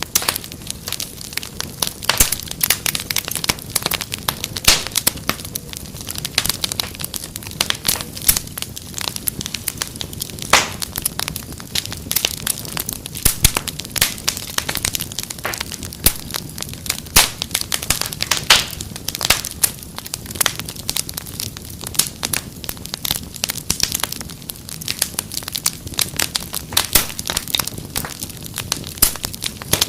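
Wood fire in a fireplace crackling steadily, with dense irregular pops and snaps over a low rumble of flame.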